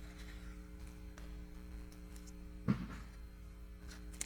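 Steady low electrical hum with a few faint clicks, and one brief louder sound about two-thirds of the way in.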